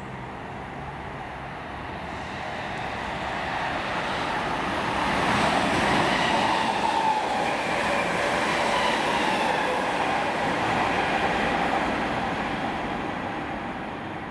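Train passing on the West Coast Main Line, growing louder to its loudest about six seconds in and then fading away. A whine in it falls slightly in pitch as it goes by.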